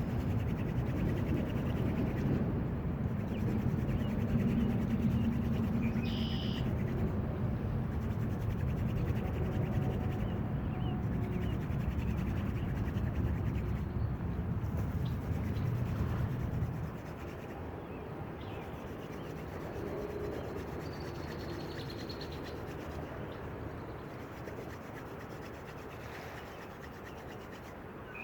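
Wooden hand-drill spindle spun between the palms, rubbing in the notch of a fireboard with a steady scraping friction noise; it becomes quieter about 17 seconds in.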